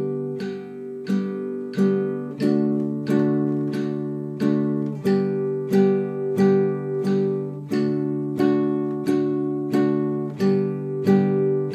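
Acoustic guitar strummed in an even beat, about one and a half strums a second. It changes between G major and D major chords every four strums.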